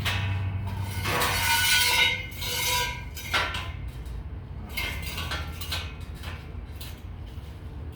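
Scrap steel pieces clanking together and ringing, one ringing clank of about two seconds followed by several shorter metallic knocks. A low steady hum runs underneath.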